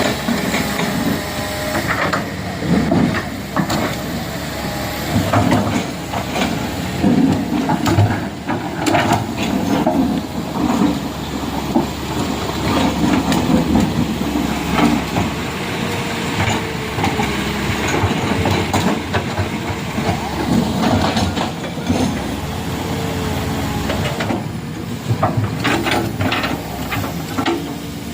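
Heavy vehicles' engines running on the road, with hissing and scattered knocks and clatter.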